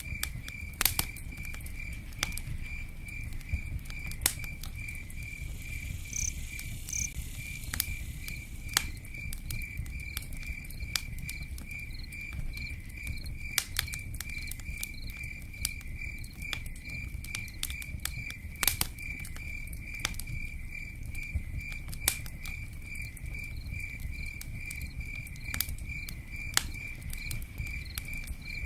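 A cricket chirping in a fast, even pulse throughout, over a campfire crackling with scattered sharp pops and a low steady rumble.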